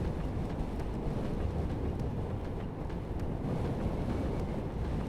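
Wind rushing over a helmet-mounted microphone while riding an electric motorcycle at speed, a steady low rumble with no engine note.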